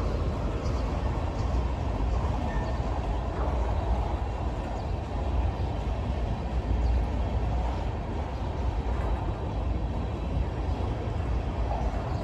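Freight train of tank cars rolling past: a steady, unbroken rumble of steel wheels on the rails.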